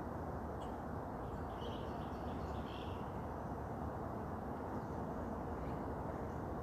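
Faint bird chirps, clustered between about one and a half and three seconds in, over a steady outdoor background noise.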